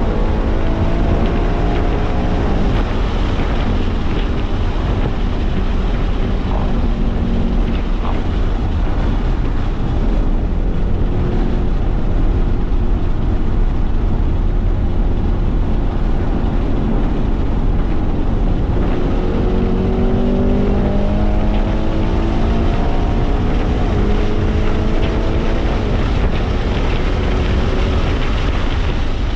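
Ford Mustang Mach 1's 5.0-litre V8 running hard at high revs under full throttle, heard from inside the cabin over heavy wind and road noise. About two-thirds of the way through, the engine note climbs steadily as the car accelerates.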